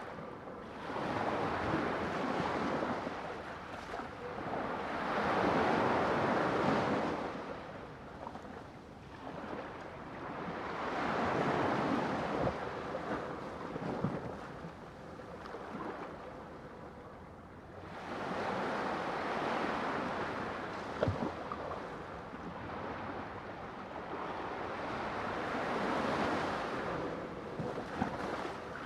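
Sea waves breaking and washing up the shore, swelling and fading every few seconds, with one brief sharp tick about two-thirds of the way through.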